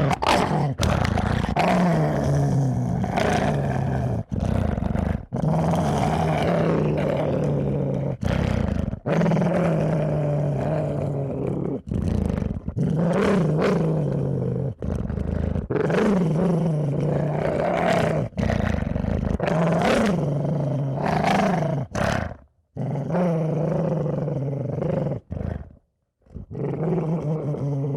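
A horror sound effect of deep creature growls, one after another, each a second or two long with brief breaks between and a longer gap near the end.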